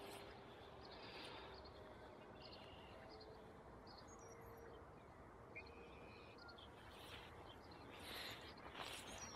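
Quiet open-air ambience with faint, scattered bird chirps, and some soft rustling near the end.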